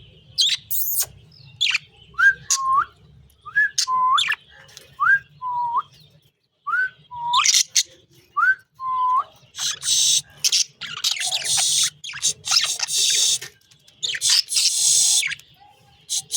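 A person whistling a short two-note call five times, a higher note then a lower one, amid sharp budgerigar chirps. In the second half the budgies chatter in loud, scratchy bursts.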